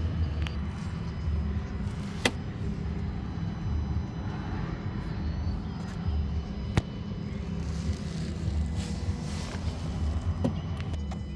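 The 6.4-litre HEMI V8 of a Dodge Charger Daytona 392, idling steadily with a low rumble, heard from underneath the car. Two sharp clicks cut in, one a couple of seconds in and one about halfway through.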